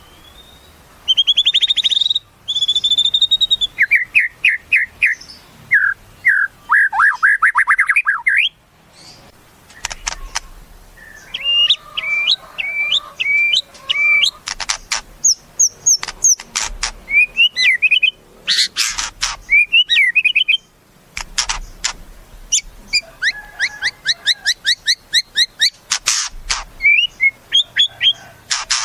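White-rumped shama (murai batu) singing a long, varied song: clear whistles, fast runs of repeated notes and trills in short phrases, with brief pauses between them.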